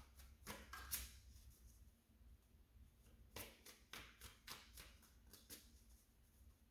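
Tarot cards being handled: faint flicks and taps. There are a couple near the start and a run of about two a second in the middle.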